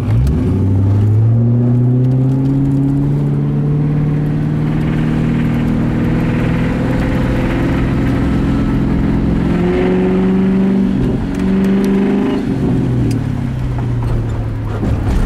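1999 Mustang GT's 4.6-litre V8 revved up sharply and held at raised revs for about thirteen seconds, rising a little further about ten seconds in, then dropping back toward idle near the end. The owner suspects a rod knock in this engine.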